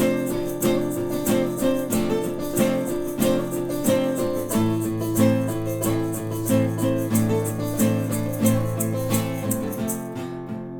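Instrumental outro of an acoustic band: guitar chords strummed in a steady rhythm with regular, crisp high percussive strokes on the beat. Near the end the percussion stops and the last chords ring out and fade.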